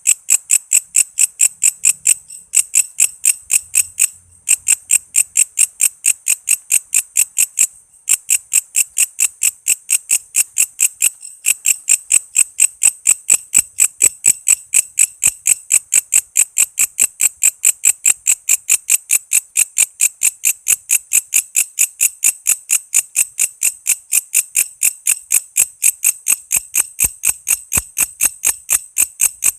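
Walang kece katydid calling: a fast, even train of sharp, high chirps, repeating without pause apart from a few brief breaks.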